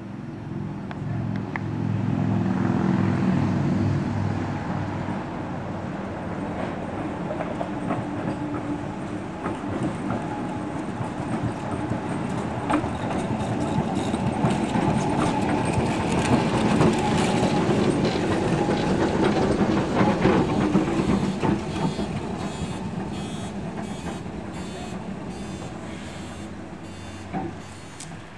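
Vintage electric tram running on street track: motor hum and the rumble of steel wheels on the rails. It swells to its loudest about halfway, then fades away, with a run of evenly spaced clicks near the end.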